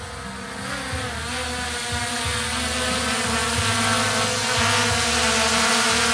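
Drone's electric motors and propellers whirring, rising in pitch about a second in and growing steadily louder as they spin up. Wind buffets the microphone underneath.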